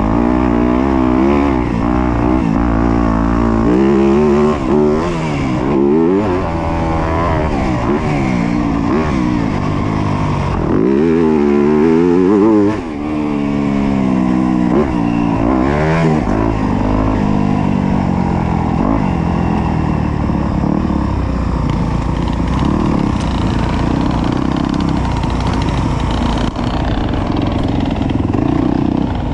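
Yamaha YZ250F's 250cc four-stroke single-cylinder motocross engine under race load, revving up and dropping back over and over in the first half, then running at a steadier pitch.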